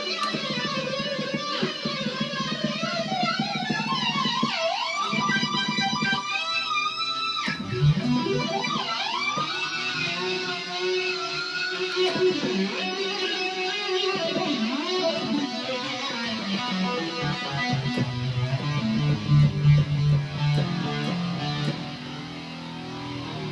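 Guitar-like distorted synth lead from a Korg Kronos played as a continuous solo line, full of sweeping pitch glides up and down from pitch bend and ribbon, with long held notes between runs.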